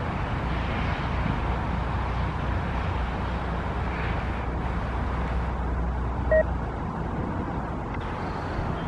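VIA Rail passenger train running away down the line, a steady low rumble with track noise that fades about seven seconds in. A brief high note is heard about six seconds in.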